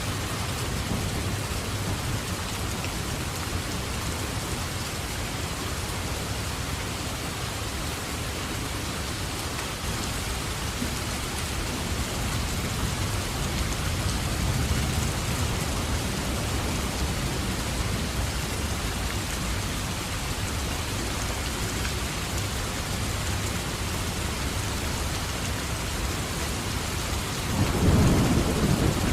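Steady heavy rain with low rolling thunder rumbling underneath, swelling into a louder thunder rumble near the end.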